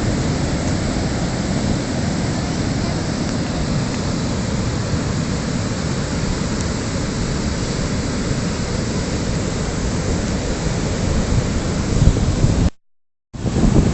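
Wind buffeting the microphone: a loud, steady rushing rumble that drops out for about half a second near the end.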